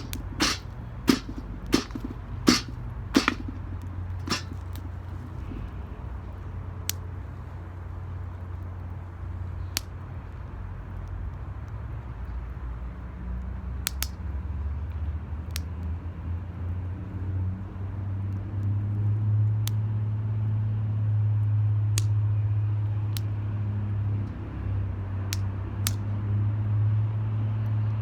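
Wood fire burning in an 18-litre square metal can, crackling and popping: a quick run of sharp pops in the first few seconds, then single pops every few seconds. Under it runs a low steady rumble that grows louder about two-thirds of the way through.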